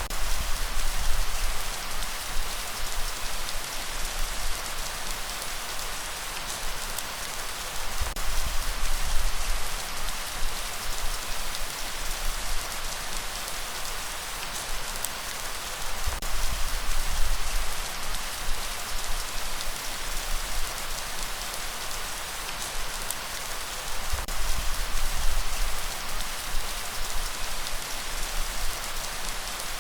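Steady rain hissing, with a deep rumble underneath that swells up about every eight seconds.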